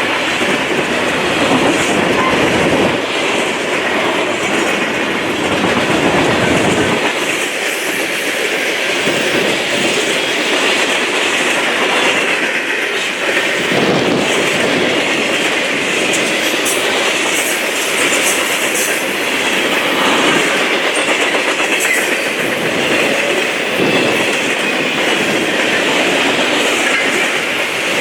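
Freight train cars rolling past at speed: a steady loud rumble and rattle of steel wheels on the rails, with clickety-clack from the rail joints.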